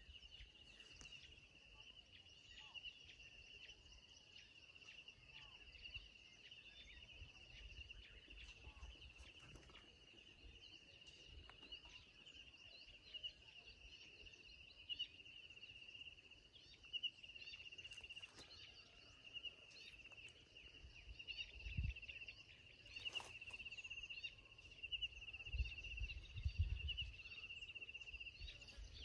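Faint outdoor ambience: a steady high-pitched insect trill with small bird chirps scattered over it, and occasional low rumbles that grow stronger near the end.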